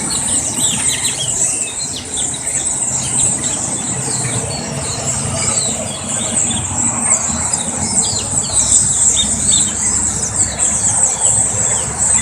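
A huge flock of birds squeaking and chattering all at once, a dense, unbroken din of high squeals and whistles. A low steady rumble runs beneath it.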